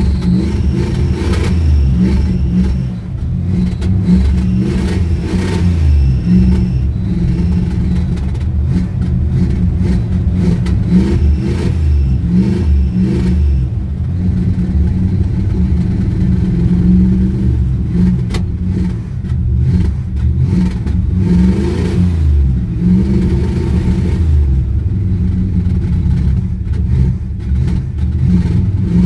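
1971 Plymouth Fury's engine running cold after a hard start, its speed and level rising and falling unevenly.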